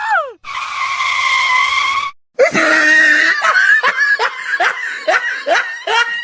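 A high-pitched voice crying out: one long held cry, then a quick series of short rising cries, about three a second.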